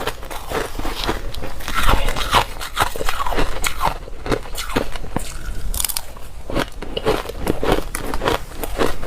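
Close-miked biting and chewing of hard, dry ice: a dense run of sharp crunches and crackles as the ice breaks between the teeth.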